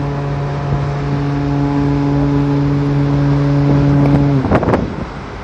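Large ferry's horn giving one long, deep, steady blast that cuts off about four and a half seconds in, sounded as the ferries pass each other.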